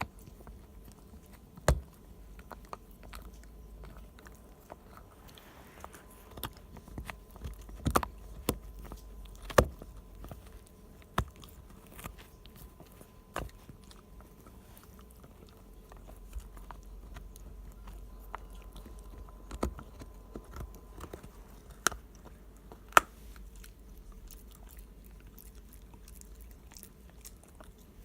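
A Shiba Inu chewing a hard cow hoof chew: irregular sharp cracks and clicks of teeth on hoof, with softer gnawing between them.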